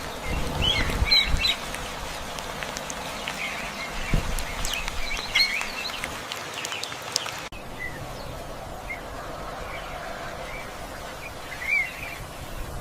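Birds calling in short chirps and calls over a steady hiss of outdoor ambience, the background changing abruptly about seven and a half seconds in.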